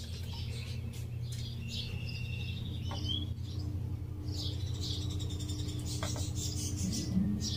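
Birds chirping over a steady low hum, with two light clicks about three seconds apart.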